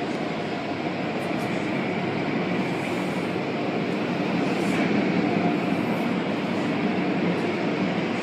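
Automatic car wash machinery running with a steady, loud rushing noise and a faint whine, swelling slightly midway.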